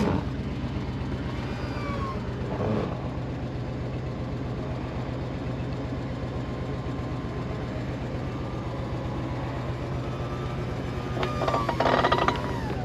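1970 Ford Mustang convertible with its engine idling, a steady low hum, while its convertible top is raised. Near the end there is a louder burst of mechanical noise.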